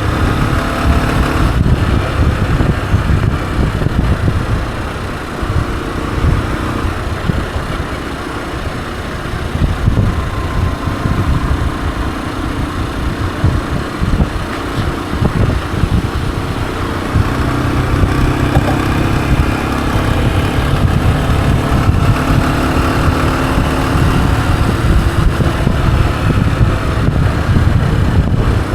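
Honda CG125's single-cylinder four-stroke engine running as the motorcycle is ridden. It eases off and gets quieter from about five seconds in, then builds up louder again after about seventeen seconds.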